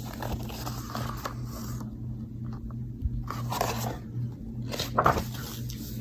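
Soft rustles and scrapes of handling, a couple of brief ones about halfway through and near the end, over a steady low electrical hum.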